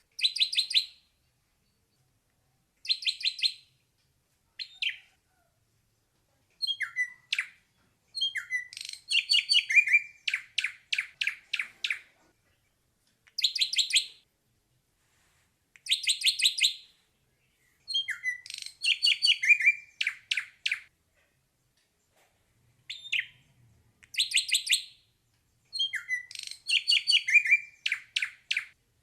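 Ashy drongo singing: a series of short phrases of rapidly repeated high notes, some opening with sharp slurred whistles, separated by pauses of a second or two.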